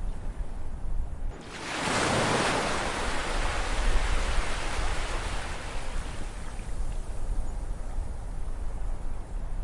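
Ocean waves on a shore. Under a low steady rumble, a wave breaks about one and a half seconds in, and its hissing wash slowly fades over the following seconds.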